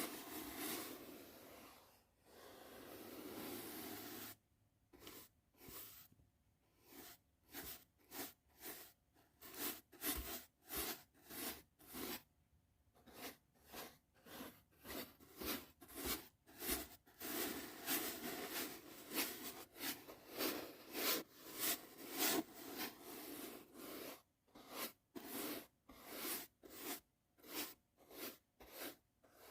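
Soft brush strokes, close up: two longer, slower sweeps, then quick repeated swishes at about two a second.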